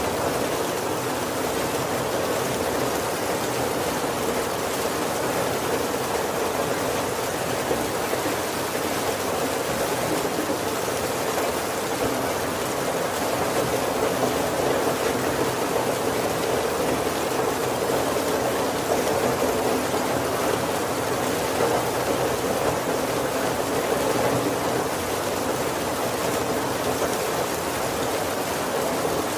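Heavy rain falling steadily on a roof: a dense, even hiss of drops with no pauses.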